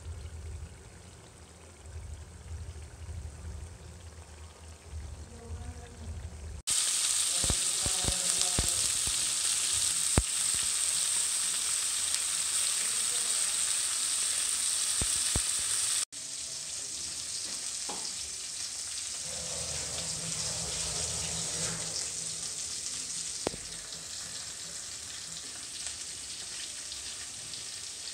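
Beef pieces frying in oil in a blackened pan for kalo bhuna, sizzling loudly with scattered clicks of a spatula. After a low rumble at the start, the sizzle comes in suddenly, then drops to a quieter sizzle partway through.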